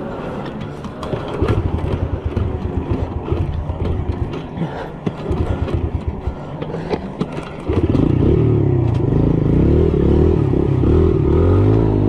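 Dirt bike engine: irregular low clattering for several seconds, then about eight seconds in it gets suddenly louder and runs with the revs rising and falling.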